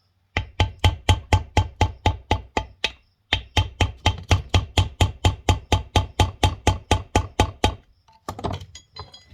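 Rapid, even hammer blows, about four or five a second, on a drift driving a stuck ring and bearing out of a Mahindra 5010 tractor's front final drive housing, each blow with a short ring. Two runs of strikes, with a brief pause about three seconds in.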